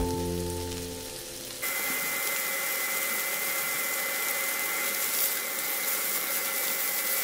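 Chicken pieces sizzling in hot oil in a non-stick pan: a steady frying hiss that starts suddenly about a second and a half in, with a faint steady high tone under it.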